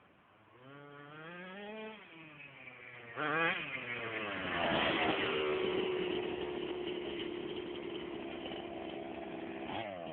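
Small two-stroke petrol engine of an FG large-scale RC monster truck revving up with rising pitch, blipping sharply about three seconds in, then running at steady high revs, with another quick blip near the end.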